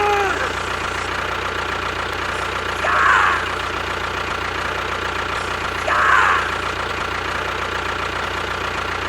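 A small motor running steadily with a constant hum, with two short rising chirps about three seconds apart.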